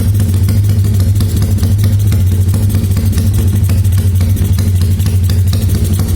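Motorcycle idling through a loud aftermarket racing exhaust with a steady, fast, choppy beat, a sound likened to a helicopter.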